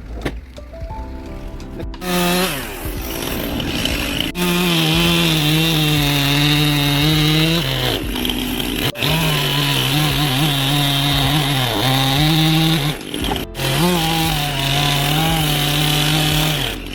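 Chainsaw running at high revs and cutting into wood, its pitch wavering under load, in several long spells broken by brief drops.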